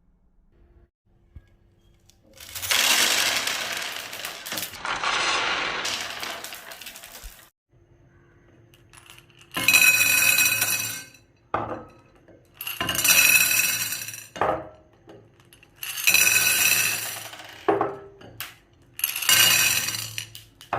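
Glass marbles rolling down a wooden marble-run track and clinking against each other. One long rolling run comes first, then four shorter runs a few seconds apart, each with ringing clinks.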